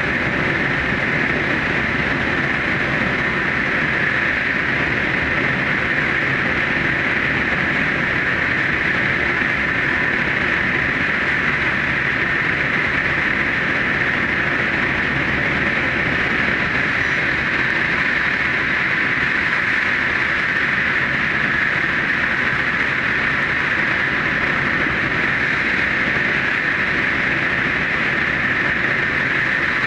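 Super Hakucho limited express electric train running at speed inside the Seikan Tunnel: a steady, unbroken rumble and hiss of wheels on rail and running gear, with no change in pace.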